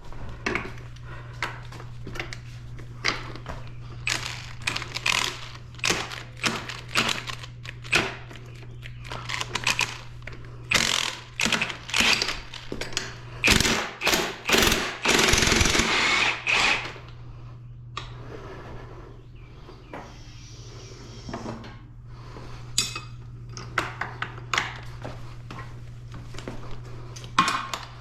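Impact wrench hammering in short bursts on the bike's bolts, with one longer run about halfway through, over a steady low hum.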